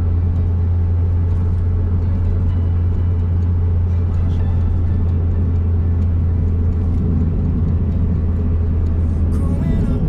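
Honda S660's turbocharged three-cylinder engine and road noise while driving at a steady speed: a constant low drone.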